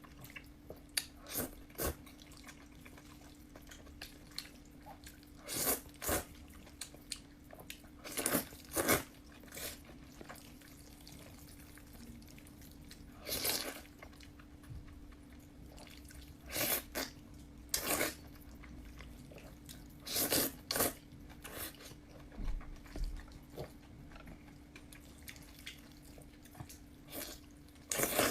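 Close-up mouth sounds of a person eating noodles: irregular wet smacks and clicks of chewing every second or two, over a faint steady hum.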